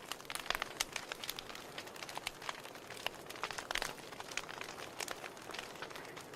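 Wood fire burning in a fireplace: a soft steady hiss of flames with irregular crackles and sharp pops from the burning logs.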